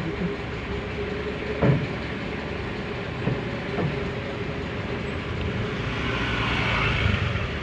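Steady running of a heavy vehicle's engine amid road noise, with a few knocks, and a hiss that swells and fades near the end as a vehicle passes.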